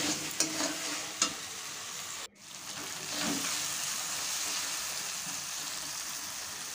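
Ground spice paste sizzling in hot oil in a metal kadai while a metal spatula scrapes and stirs it. A few sharp scrapes come in the first second or so, the sound cuts out for a moment a little over two seconds in, and then a steady sizzle follows. The masala is being fried down until the oil separates from it.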